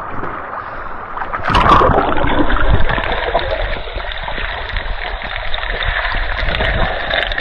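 A splash about a second and a half in, then steady rushing and crackling river water as a diver goes under.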